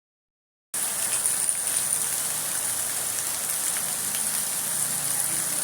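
Heavy rain pouring down steadily in a storm, a dense hiss with many small drop ticks, starting abruptly under a second in.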